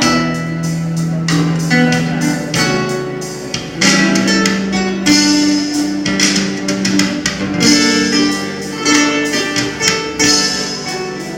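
Live instrumental music: a solo performance with quick runs of notes over held low tones.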